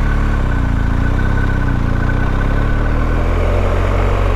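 BMW R1250GS boxer-twin engine running at low revs as the motorcycle rides slowly, its pitch wavering a little. A thin, steady high whine sits over it for the first three seconds.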